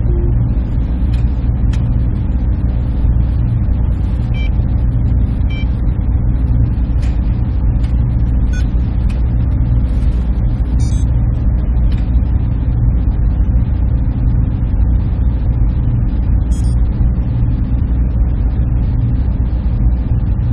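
Server room ambience: a steady, unchanging low hum and whoosh of machine-room equipment, with a few faint scattered ticks.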